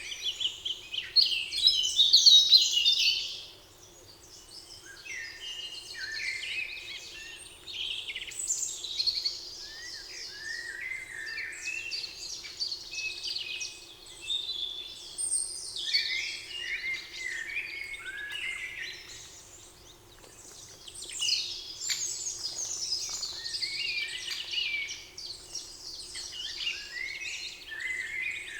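Several songbirds singing and chirping together in a spring forest, overlapping trills and quick chirped phrases, loudest about two seconds in, over a faint steady low hum.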